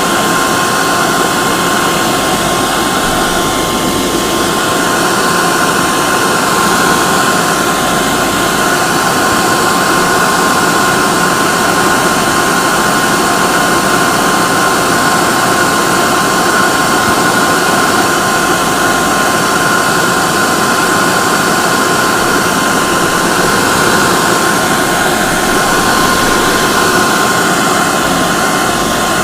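Hair dryer running continuously at a constant setting: a steady rush of blown air with an unchanging motor whine.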